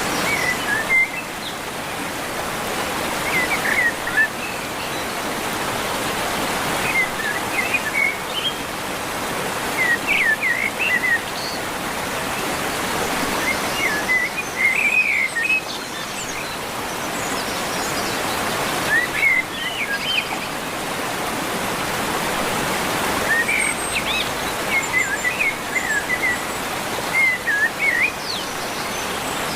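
Birds chirping in short quick phrases every few seconds over a steady rushing background noise.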